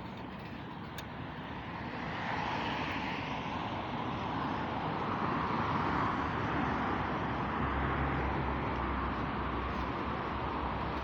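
Traffic and wind noise heard from a moving bicycle: a steady rush that swells about two seconds in, with a low rumble joining in the second half.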